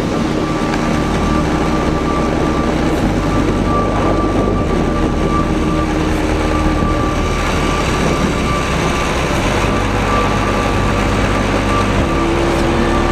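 Minsk motorcycle engine running steadily while riding, mixed with heavy rushing noise; its pitch rises slightly near the end.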